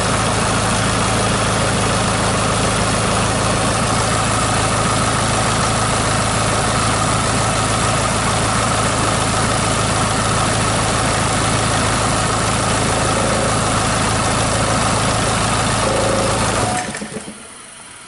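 SsangYong 664950 four-cylinder diesel engine running outside a vehicle, idling steadily on a test run. It is switched off near the end and the sound dies away quickly.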